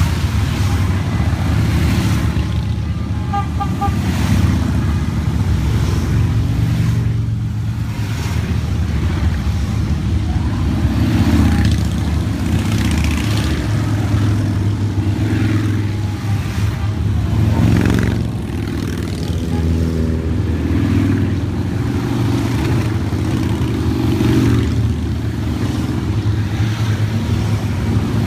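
A steady stream of motorcycles riding past, their engines running in overlapping waves that swell and fade as bikes go by. A short double horn toot sounds about three seconds in.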